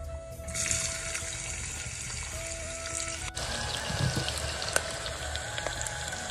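Chopped onions frying in an aluminium pot: a steady sizzling hiss with small crackles, over soft background music in the first half.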